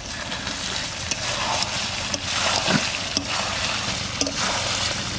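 Duck meat and potatoes sizzling in oil in an uncovered kadai while the curry is fried down dry (kasha). Light knocks of a stirring ladle on the pan come about once a second.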